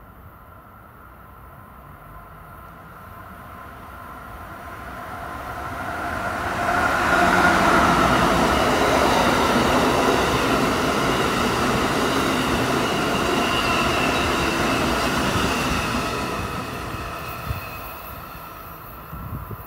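Amtrak passenger train of Amfleet coaches passing at speed: the rumble and rush of steel wheels on rail builds over about seven seconds, stays loud while the coaches go by, then fades as the train recedes.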